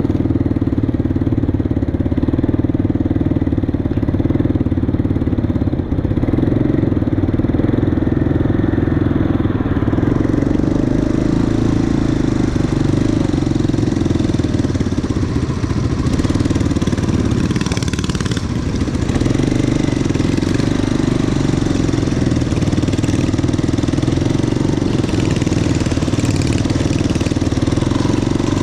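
Motorcycle engine running steadily, with a brief drop and rise in engine speed about two thirds of the way through.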